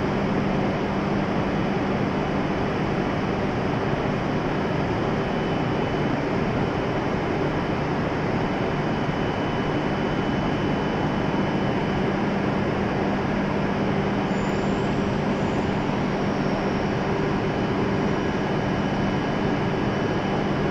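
Steady whirring hum of a stationary E7 series Shinkansen train's onboard equipment as it stands at the platform.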